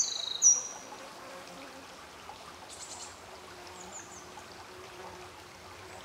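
A songbird sings a short run of high sliding whistles in the first second, loudest about half a second in, over faint trickling water. A faint insect buzz comes in about halfway through.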